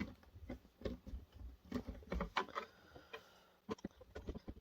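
Phillips screwdriver backing screws out of a projector's plastic casing: irregular light clicks and small knocks of the driver tip and the plastic, with a faint thin squeak around the middle.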